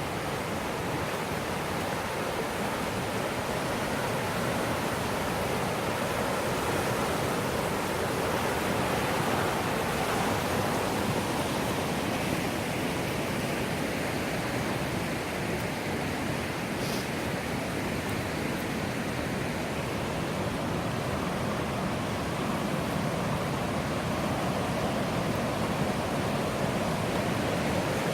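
Steady rush of flowing river water from the Millstone River.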